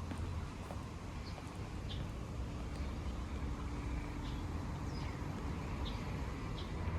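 Outdoor ambience: a steady low rumble of traffic or an engine, with short high bird chirps about once a second.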